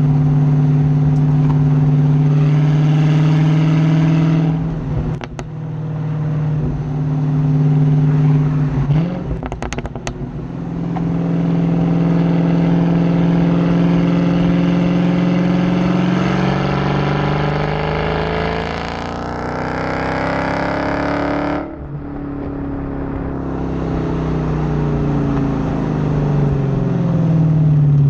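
Dodge Hellcat's supercharged 6.2-litre Hemi V8 running under way. It holds steady at first and lets off briefly about four seconds in, with a few clicks around ten seconds. It then builds slowly in pitch through a long pull, cuts off sharply about twenty-two seconds in, and falls in pitch as the revs drop.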